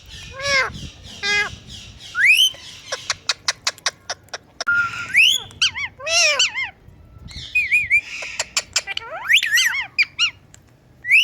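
Pet parrot whistling and squawking in short calls that glide up and down in pitch, with a quick run of sharp clicks about three seconds in.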